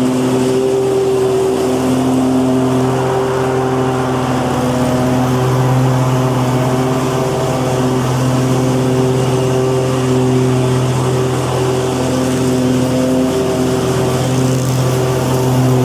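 Lawnmower engine running steadily at a constant speed, a strong low hum with a mechanical whir over it that swells and dips slightly.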